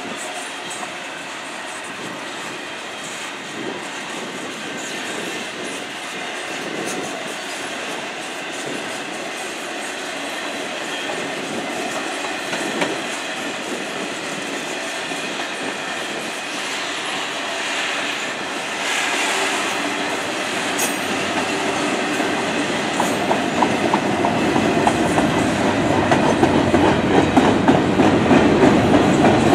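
Double-stack container well cars of a Canadian Pacific intermodal freight train rolling past over a short bridge, wheels clicking over the rail joints in a steady rumble that grows louder over the last few seconds.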